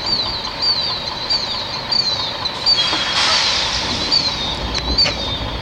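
Killdeer giving its frantic, high-pitched calls: short falling notes repeated about two a second. A brief rush of noise sounds a little past the middle.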